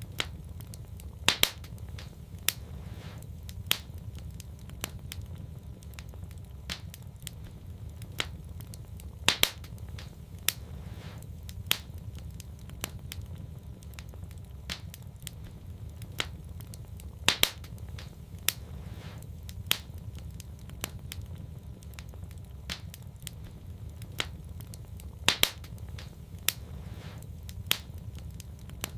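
Wood fire crackling and popping in a fireplace, over a steady low rumble. Sharp crackles come every second or so, with a louder double pop about every eight seconds in a pattern that repeats evenly, as in a looped recording.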